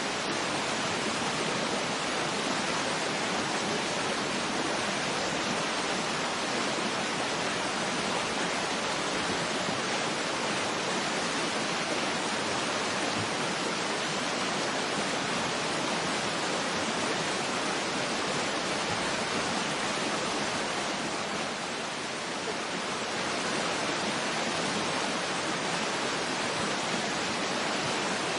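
Waterfall ambience: a steady, even rush of falling water with little deep rumble. It dips slightly in loudness a little over two-thirds of the way through.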